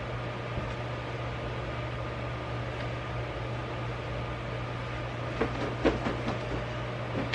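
Steady low machine-like hum with a faint hiss, and a few light knocks and clicks near the end.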